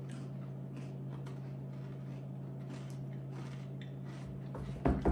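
Faint clicks of people chewing crunchy strawberry-filled Koala's March biscuits over a steady low hum, with a louder bump near the end.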